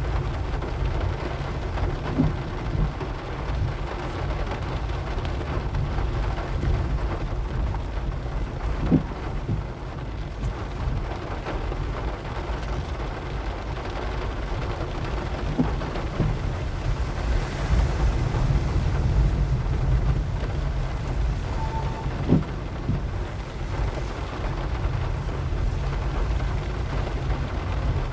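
A car driving in the rain: a steady low rumble of engine and tyres with the hiss of rain, and a few short knocks as it bumps along.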